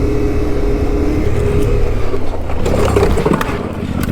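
Motorcycle engine running, with a burst of clattering knocks about two and a half seconds in.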